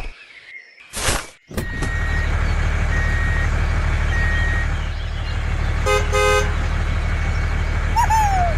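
Truck engine starting up about a second and a half in and then running steadily, with two horn toots about six seconds in and a short falling whistle near the end.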